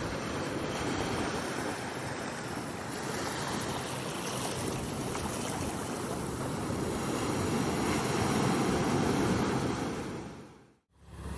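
Ocean surf washing continuously, swelling a little toward the end, then dropping out to silence for a moment shortly before the end.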